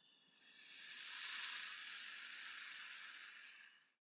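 Corn snake hissing: one long, breathy hiss that swells over the first second, holds, then cuts off suddenly near the end.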